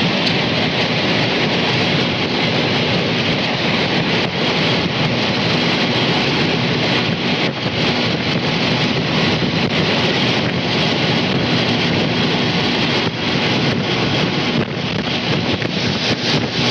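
Strong storm wind blasting an outdoor camera's microphone near a tornado: a loud, steady rushing noise with many small crackles.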